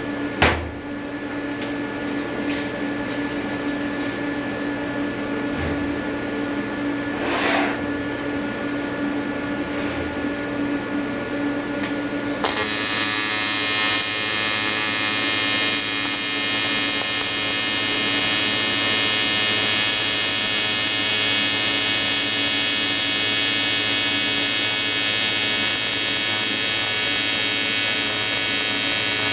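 AC TIG welding arc from an Everlast 325EXT on square wave, buzzing steadily on an aluminium intercooler. About twelve seconds in the buzz turns sharply louder and harsher and holds there.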